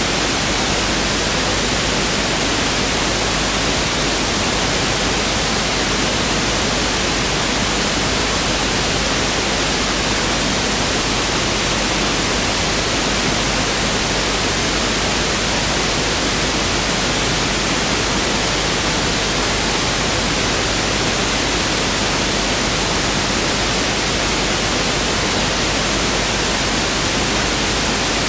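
Pink noise (1/f) test signal: a steady, even hiss that spreads across the whole frequency range and does not change in level.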